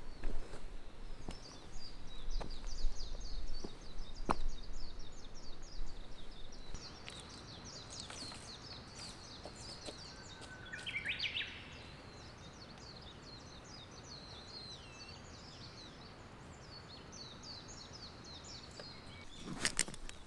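Outdoor chirping chorus, most likely night insects, running on without a break, with one short rising-and-falling call partway through. A few sharp clicks are scattered through it, and a cluster of louder knocks comes near the end.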